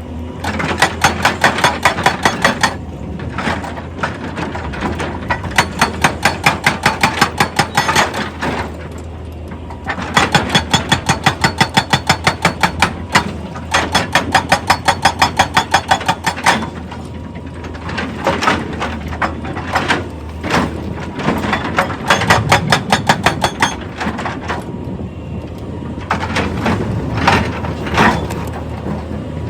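Hydraulic rock breaker on an excavator hammering in runs of rapid, evenly spaced blows, several a second, each run lasting a second or three with short pauses between. A steady engine hum runs underneath.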